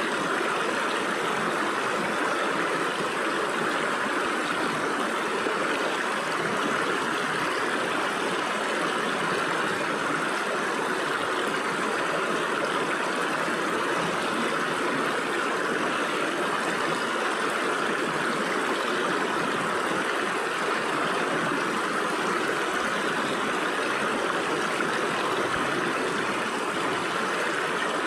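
Stream water flowing and splashing between rocks, a steady rushing sound without breaks.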